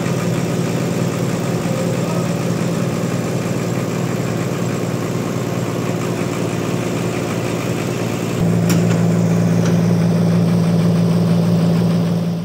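An engine running steadily at a low hum. About eight seconds in it steps up a notch louder and keeps running at the new level.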